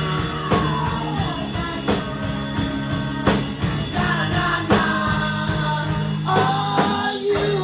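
A small rock band playing live: drum kit, bass and guitar, with a voice singing over them.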